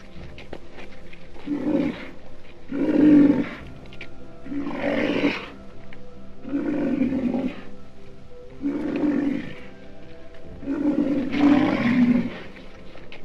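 A large wild animal calls with a deep roar again and again, roughly every two seconds, over background music.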